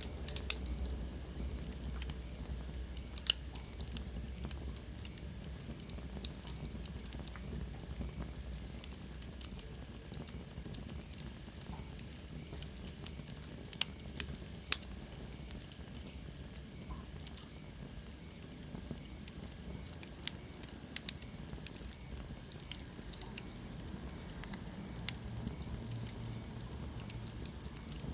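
Wood fire burning in a fireplace: a steady soft hiss with irregular crackles and sharp pops. About halfway through, a thin high whistle slowly falls in pitch.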